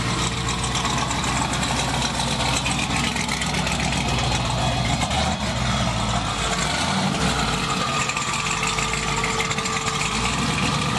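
Twin-turbo 427 cubic-inch LS-type V8 of a Cadillac Escalade drag car idling steadily.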